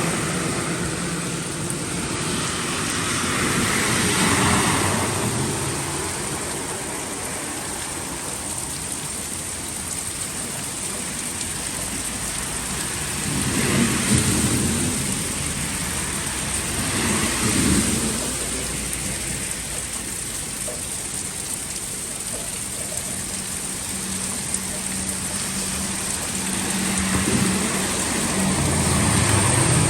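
Heavy rain falling steadily, with vehicles passing now and then on a flooded road, each pass a swell of low rumble and water spray that comes and fades: about four times, the last near the end.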